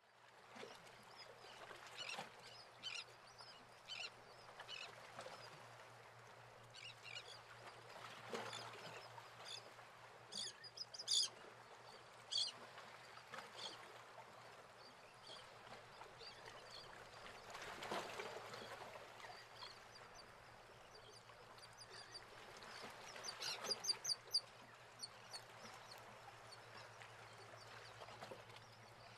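Outdoor ambience with birds calling: scattered short, high chirps over a steady low hum, with a quick run of calls about 23 seconds in.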